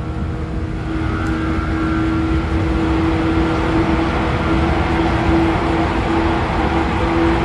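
Running noise inside a 113 series electric train's motor car: the MT54 DC series-wound traction motors and gearing whine at a steady pitch over the rumble of wheels on track. The whole sound grows louder about a second in.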